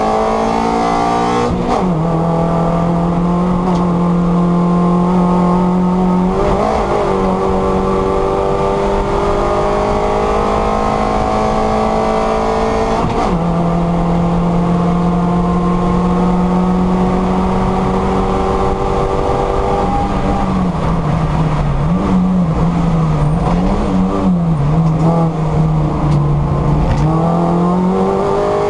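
Mini Cooper race car engine heard from inside the cockpit at racing speed, its pitch climbing steadily through the gears with sharp drops at upshifts about 2, 6.5 and 13 seconds in. Past the two-thirds mark the revs dip and waver up and down through a corner, then climb again near the end.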